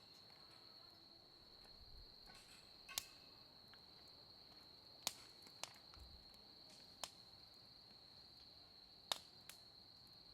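Burning firewood crackling, with about half a dozen sharp, scattered pops as the wood bursts. Behind it an insect, likely a cricket, trills in one high, unbroken tone.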